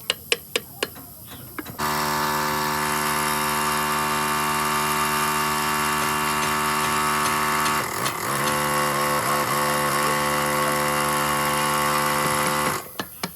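A handheld power tool starts about two seconds in and runs steadily. Its pitch dips and wavers briefly about eight seconds in, as if it is pressed onto the work, and it stops sharply near the end. Before it starts there is a run of sharp, evenly spaced ticks.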